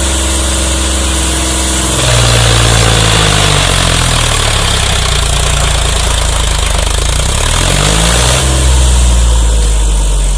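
Sonalika 745 tractor's diesel engine running, its speed rising about two seconds in, easing back, then rising again near the end.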